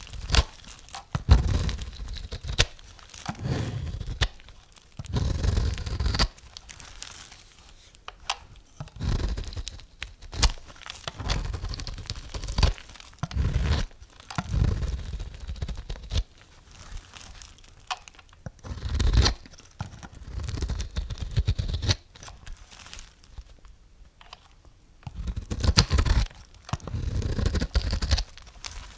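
Bar soap being cut with a knife: repeated crunchy, crackling cuts, one every second or two, each a short scraping tear through the soap.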